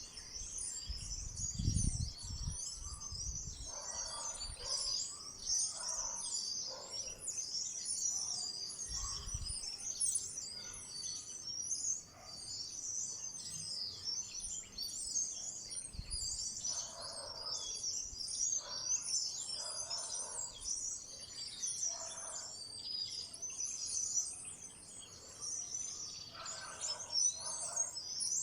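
A flock of small wild birds chirping continuously, many high chirps overlapping, with clusters of lower calls every few seconds. A few brief low rumbles come about two seconds in and again around nine seconds.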